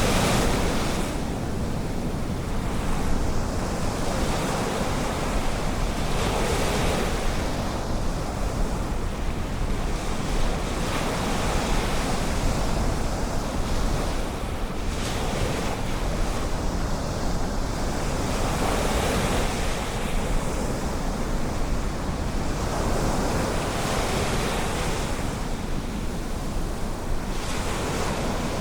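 Ocean waves breaking and washing onto the shore, the surf swelling every four to five seconds over a steady low rumble of wind on the microphone.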